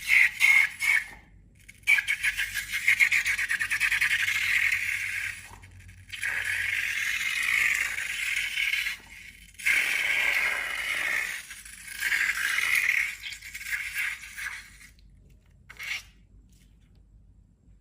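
Crackly scraping and squishing from slime-making materials being handled, in several bursts a few seconds long with short gaps between them.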